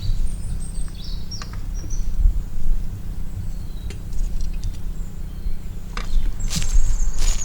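Wild birds chirping in short high calls near the start and again near the end, over a steady low rumble, with a few sharp clicks.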